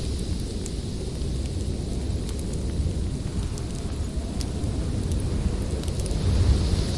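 Storm wind blowing hard in a deep, steady rumble that swells near the end, with sparse sharp crackles and pops from a wood fire.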